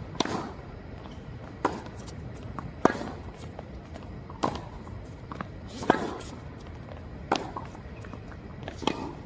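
Tennis rally: a ball struck by rackets and bouncing on the court, about seven sharp knocks at roughly one every second and a half.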